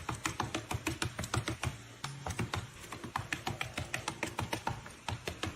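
Quick, regular tapping, many taps a second, running steadily.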